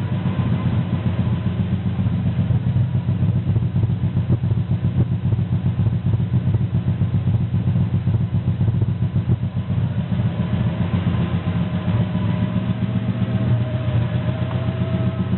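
Lexus SC300's 2JZ inline-six idling through a Blitz Nur-spec exhaust with an uneven, pulsing beat: the misfire being shown. A faint whine wavers in pitch over it.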